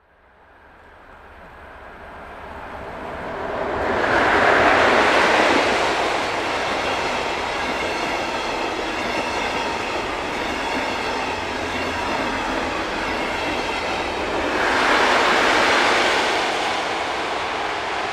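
A steam-hauled train passing close by: the sound builds to a loud peak about four seconds in as the front goes past, then a long run of wagons rolls by with wheel-on-rail clatter, swelling again near the end.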